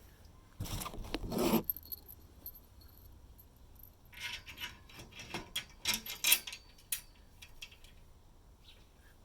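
Clinking and rattling of small hard objects being handled: a short scuffing burst, then a run of sharp clicks and jangles a few seconds later.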